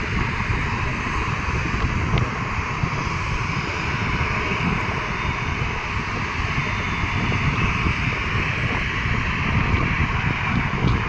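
Steady engine noise of an airliner departing after takeoff, mixed with wind buffeting the microphone.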